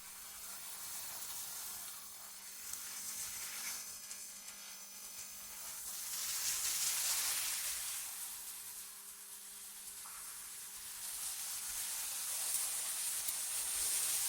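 AI-generated cold-wind ambience: a high, airy hiss that swells and fades in slow gusts, with faint steady tones for a couple of seconds about four seconds in.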